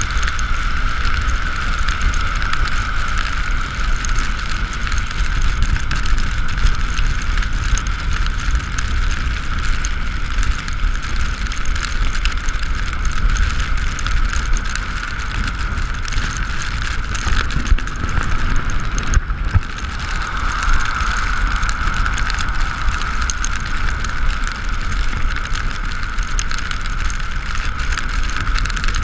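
Steady riding noise from an Ekoway ML5000 electric scooter on a wet road: a constant mid-pitched whine over the low rumble and hiss of wind and tyres.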